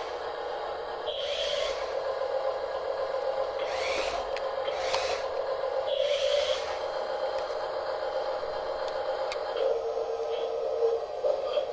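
Small electric drive motors of a radio-controlled Double E E594 skid-steer loader whining steadily, with a few short bursts of scraping as it works. The whine dips lower briefly near the end.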